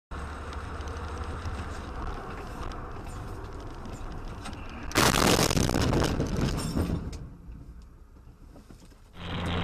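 Dash-cam recording of a moving vehicle with steady road and engine rumble. About five seconds in, a sudden loud harsh burst of noise lasts about a second, then the sound fades away. Near the end a steady low hum starts abruptly.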